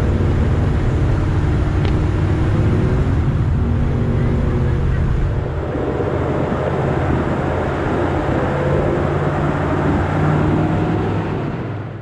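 Chevrolet Nova's engine running at a steady highway cruise under road and wind noise, heard close from the hood. The level dips slightly about halfway through and fades out at the end.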